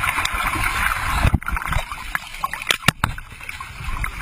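Sea water splashing and sloshing close to a hand-held camera's microphone as people move in the water, with a hiss in the first second and several sharp knocks.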